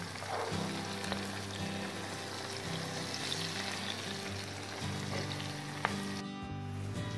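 Chopped green peppers sizzling and frying in oil in a pot as a wooden spoon stirs them.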